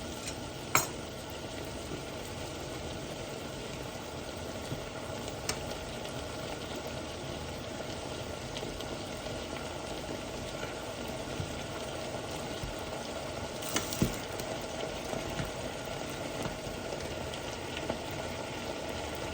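Chicken and vegetables sizzling as they are stir-fried in a pan, with a steady frying hiss. A few sharp clicks of the utensil against the pan come about a second in and again around fourteen seconds in.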